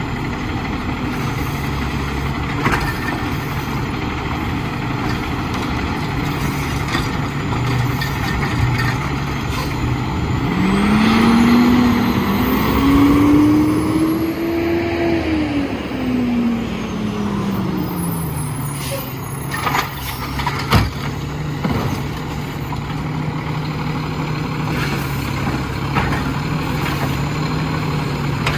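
Diesel engine of an Autocar WXLL garbage truck with a McNeilus Autoreach body idling, revving up for several seconds about ten seconds in and easing back down to idle. A few sharp knocks follow a few seconds later.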